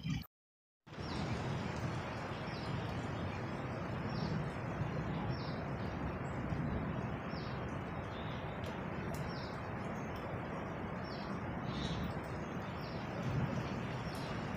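A bird repeating a short, high chirp about once a second over a steady rushing background noise. The sound drops out completely for about half a second near the start.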